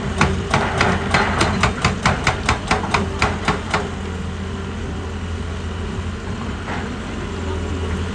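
Heavy machine's diesel engine running steadily, with a rapid, even series of sharp metallic impacts, about four a second, that stops about four seconds in.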